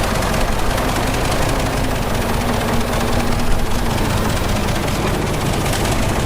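Heavy diesel engine of earthmoving machinery running steadily under load, with a fast, even clatter.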